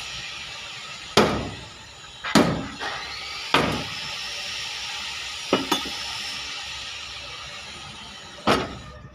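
Irregular hammer blows on sheet metal: about seven sharp strikes, each with a short ring, over a steady hiss that fades away.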